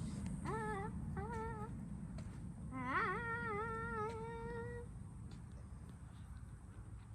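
A child making dirt bike engine noises with his voice: a few short revs, then one longer rev about three seconds in that climbs and holds. A steady low rumble runs underneath.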